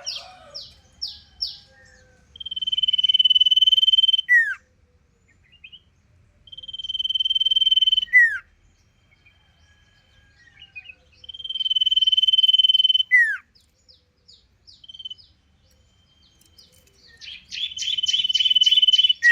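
A sirpu songbird in full song: four times a long, steady whistled note held nearly two seconds, each ending in a quick downward swoop, with short scattered chirps between. It opens with a rapid run of short falling notes, about four a second.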